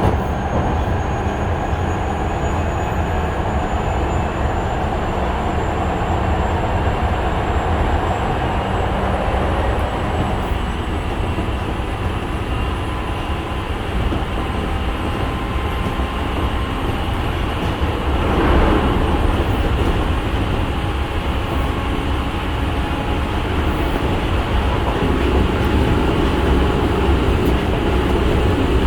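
Osaka Metro 66 series electric train running, heard inside the passenger car: a steady rumble of wheels and running gear, with the faint high whine of its GTO inverter rising in pitch over the first ten seconds. A brief louder rush comes about eighteen seconds in.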